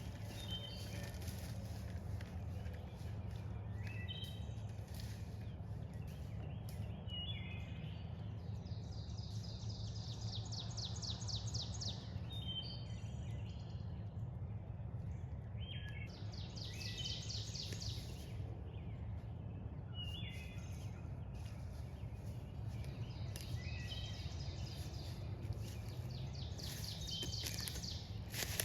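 Several songbirds singing: short whistled phrases and fast high trills that come again every few seconds, over a steady low background rumble.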